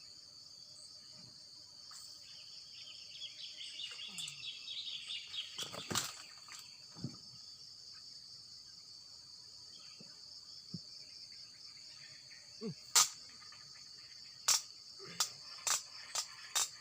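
A steady, high-pitched pulsing chorus of insects. A few seconds in comes a falling, pulsed trill. Later a series of sharp clicks and knocks follows.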